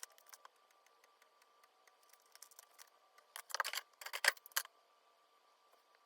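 Faint handling noises: two short clusters of clicks and rustles, about three and a half and four and a half seconds in, over a faint steady hum.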